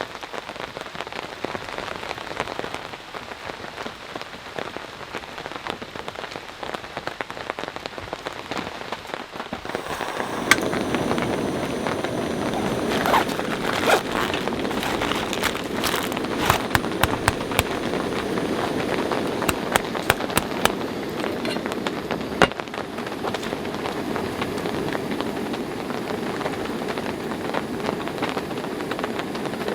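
Heavy rain falling steadily on a surface. About ten seconds in it grows louder and fuller, and for the next dozen seconds sharp taps of heavier drops stand out above the patter.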